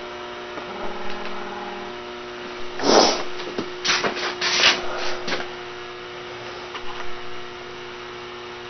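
A steady electrical hum, with a few brief scraping, rubbing noises about three seconds in and again between four and five and a half seconds.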